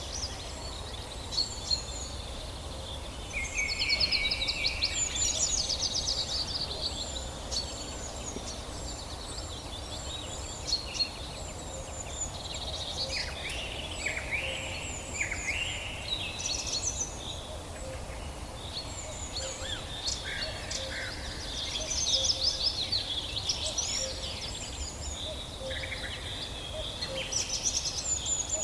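Several songbirds singing and calling together, a mix of quick trills and short chirps, busiest and loudest about four seconds in and again past twenty seconds, over a steady low background hiss.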